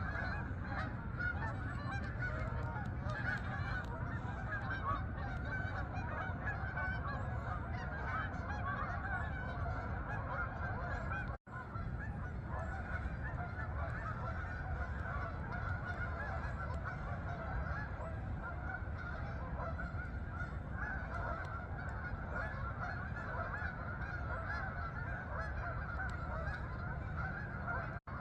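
A large flock of geese honking continuously, many calls overlapping at once, over a low steady rumble, with a momentary break in the sound about eleven seconds in.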